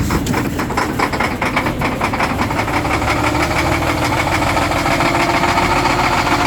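Kenworth truck's diesel engine running roughly with a fast clatter just after a −30 °C cold start, left unplugged with no block heater for a week; it doesn't sound happy. It settles a little steadier toward the end.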